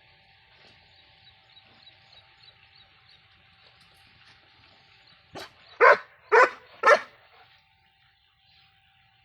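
Greyhound barking three times in quick succession, about half a second apart, just past the middle, after a brief softer yelp.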